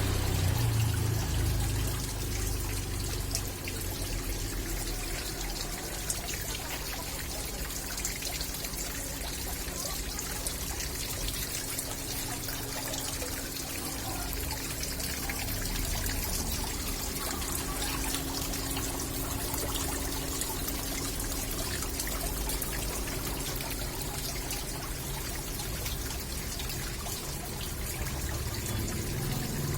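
Small waterfall: water pouring and trickling steadily, with a low steady hum beneath it.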